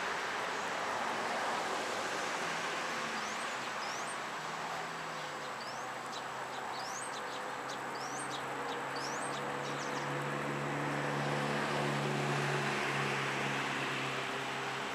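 A low engine hum from a motor vehicle, growing stronger about halfway through, over a steady outdoor background noise. A bird chirps in short rising notes several times in the middle.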